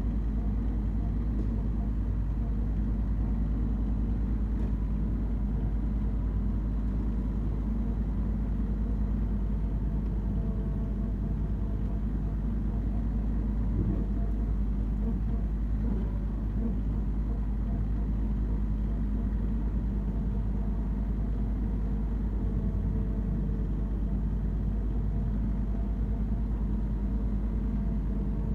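Branson 3520R compact tractor's diesel engine running steadily at an even speed while mowing.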